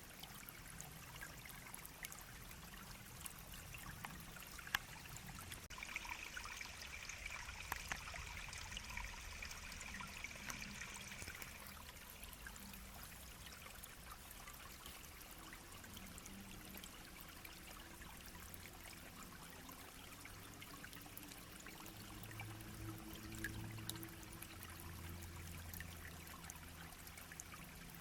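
Small shallow brook babbling and trickling steadily over stones. A faint, steady high-pitched sound runs over it for about six seconds in the first half.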